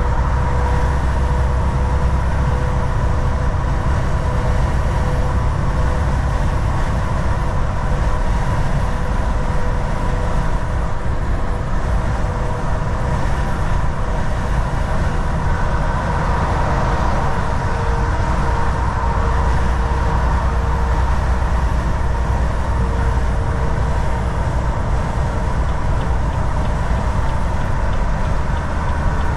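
Volvo VNL 760 semi truck cruising at highway speed: a steady low engine drone under even tyre and road noise, with a faint steady whine running through it.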